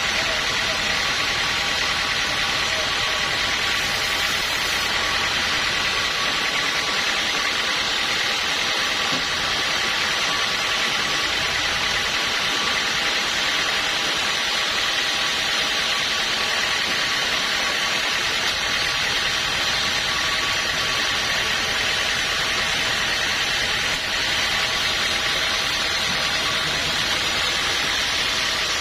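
Sawmill machinery running steadily, a loud even mechanical hiss with a constant whine that does not change.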